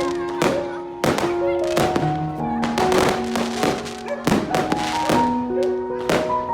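Firework bangs and crackles going off repeatedly, about one to two a second, over background music with sustained notes.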